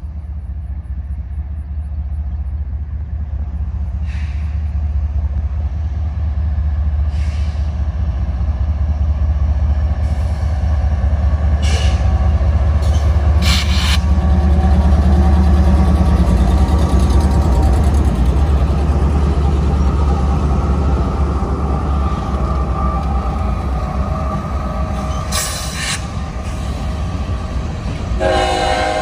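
Diesel train locomotive running past with a heavy low rumble that builds to its loudest about halfway, with a few brief sharp clicks along the way. Its horn starts to sound just before the end.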